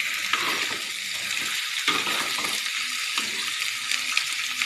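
Pieces of boiled mackerel tuna, chillies and aromatics sizzling in oil in a metal wok as they are stirred, with scrapes and knocks against the pan now and then.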